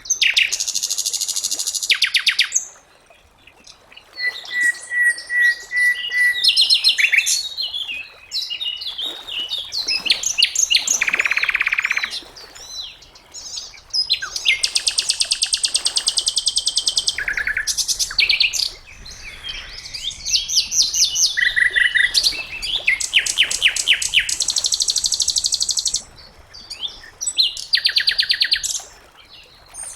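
Sikatan londo (a small flycatcher kept by Indonesian bird hobbyists) singing: loud, fast trills and chattering phrases, each a second or two long, broken by short pauses and a few clear whistled notes.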